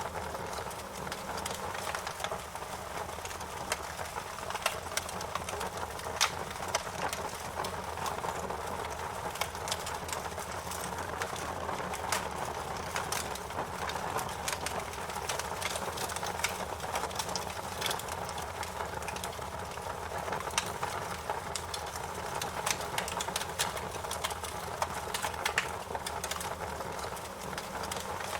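Wood fire crackling in a fireplace: many irregular sharp pops and snaps over a steady hiss of burning.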